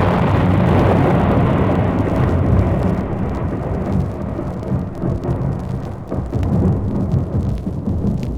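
Storm sound effect on a record: thunder rumbling over steady rain. It is loudest at the start and slowly dies away.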